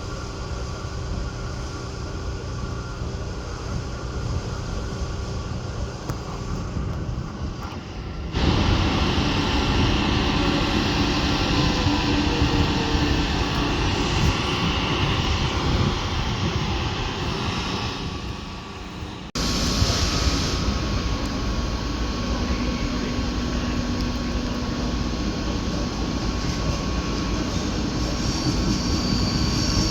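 Trains in a large railway station: a steady mechanical hum and rumble of railway vehicles, stepping up in level about eight seconds in and changing abruptly again about nineteen seconds in.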